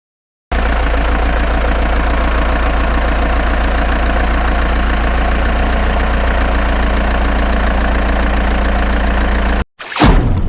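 Steady engine idling sound, a low even hum that starts abruptly about half a second in and cuts off suddenly near the end, followed by a short falling whoosh.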